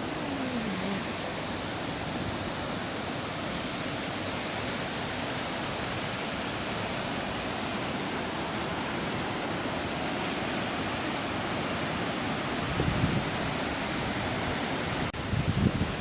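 Waterfall rushing steadily. A few low knocks come near the end.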